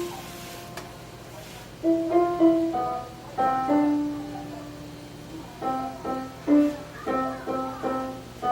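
Piano music: a slow phrase of struck notes and chords that ring and fade.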